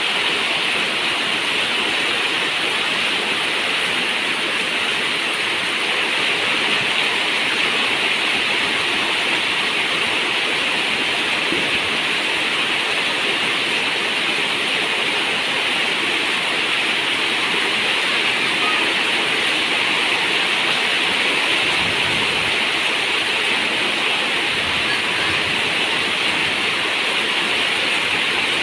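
Steady rain on a zinc roof: an even, unbroken hiss of water.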